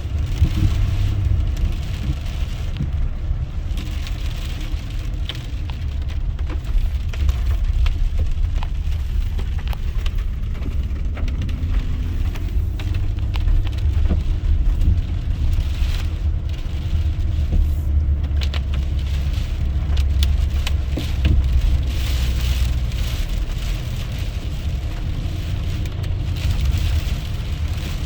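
Car being driven, heard from inside the cabin: a steady low road-and-engine rumble with a fainter hiss over it.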